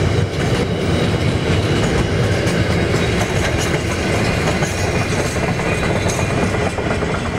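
Freight train's container flat wagons rolling past on the rails, a steady rumble with the wheels clattering over the rail joints, easing off a little near the end as the last wagon goes by.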